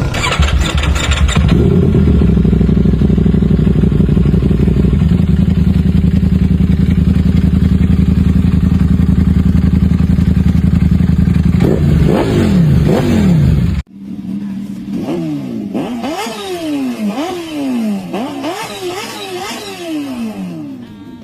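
Big motorcycle engine idling steadily, then revved a couple of times. After an abrupt cut, a motorcycle engine is revved over and over in quick blips, about one a second.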